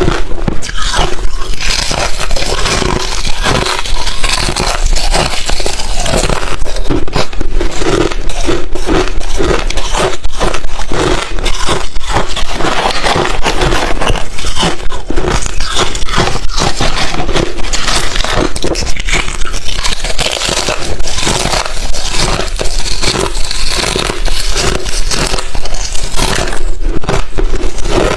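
Crushed, thin refrozen ice chips crunched between the teeth close to the microphone, a continuous run of sharp cracking and crackling bites.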